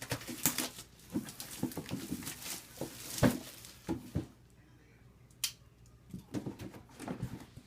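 Cardboard box and packaging being handled and opened: a string of short clicks, taps and rustles, with a quieter spell just past the middle broken by one sharp click.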